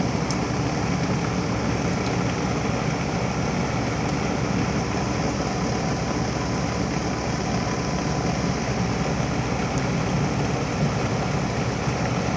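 Steady hum of outdoor heat pump units running, with the Amana 4-ton heat pump in its defrost cycle.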